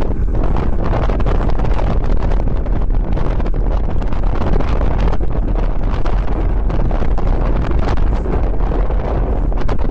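Wind buffeting the microphone of a camera riding along on a moving bicycle: a loud, steady rumble of rushing air.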